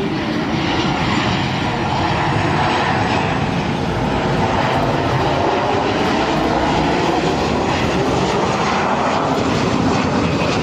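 Jet aircraft passing low overhead, its engines running loud and steady, with a whine that bends in pitch as it goes by.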